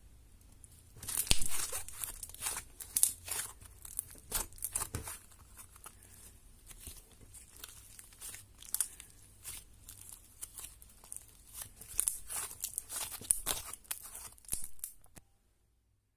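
Glitter slime being squished and stretched by hand, giving irregular sticky crackles and pops. It starts about a second in and stops abruptly near the end.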